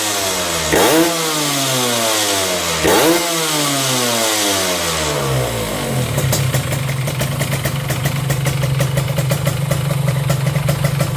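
Yamaha RX-King 135 cc two-stroke single through an Aitech exhaust: the throttle is blipped twice, the pitch falling away slowly after each rev, then the engine settles into a steady idle with a regular popping from about six seconds in.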